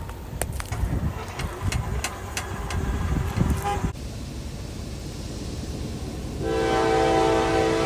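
Scattered clicks over a low rumble for the first few seconds. About six seconds in, a locomotive air horn starts sounding a steady multi-note chord.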